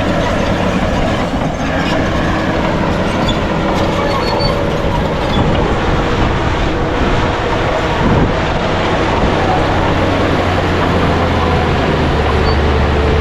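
Bulldozer's diesel engine running under load while its steel crawler tracks clatter and squeal. The low engine hum grows stronger near the end.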